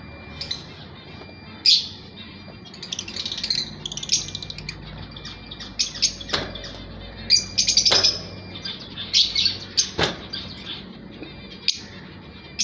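Pair of lovebirds, a Fischer's lovebird and a masked lovebird, chirping and chattering in short, high, shrill bursts on and off throughout. Three sharp clicks come about six, eight and ten seconds in.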